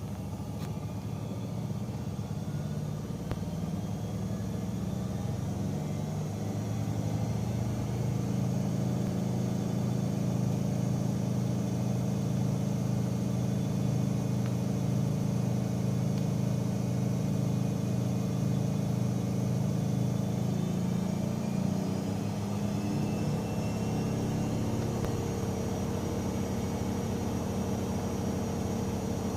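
AEG Öko-Lavamat 88840 washing machine running: a steady motor hum with a high whine that slowly climbs in pitch over the first half.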